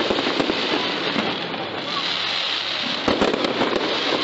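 Fireworks display going off: a dense crackle of many quick pops over a steady rumble of shells, thickest at the start and again about three seconds in.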